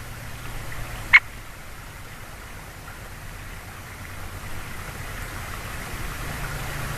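A woodpecker gives a single short, sharp call about a second in, over a steady rushing background noise.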